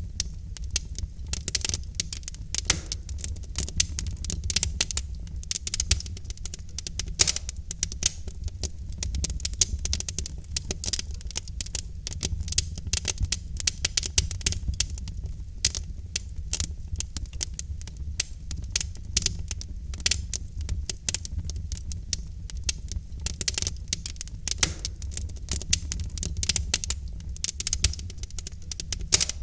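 Wood fire burning in a fireplace: a continuous run of sharp, irregular crackles and pops over a steady low rumble of the flames.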